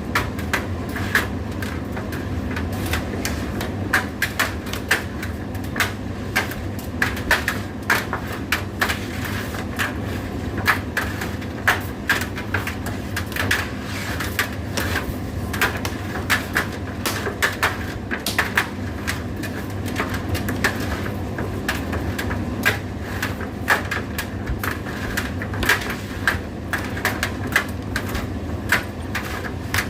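Indesit IDC8T3 condenser tumble dryer running: a steady low motor and drum hum with irregular clicks and knocks as the load tumbles in the turning drum.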